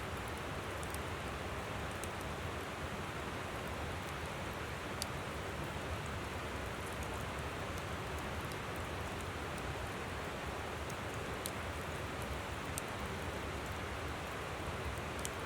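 Steady rush of a flowing river, with scattered sharp pops and crackles from a wood campfire.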